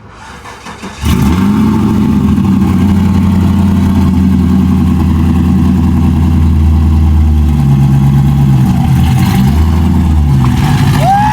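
Car engine starting abruptly about a second in and then running loudly and steadily, its pitch shifting a few times in the second half. A short rising-and-falling squeal comes at the very end.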